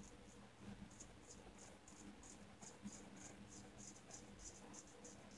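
Shavette razor with a Gillette Wilkinson Sword blade scraping through lathered stubble in short, quick, faint strokes, about three a second.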